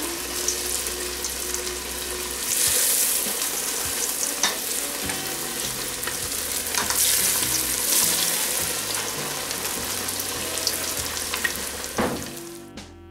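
Cornflake-crusted fish filets deep-frying in hot oil in a steel pot: a steady, dense sizzle that swells louder twice, with a few sharp clicks of the metal slotted spoon against the pot. The sizzle drops away and music comes in just before the end.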